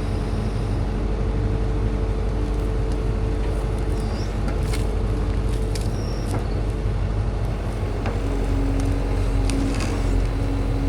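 A motor vehicle's engine running steadily, with a low rumble and a few level tones, and some short clicks and high squeaks from about four seconds in.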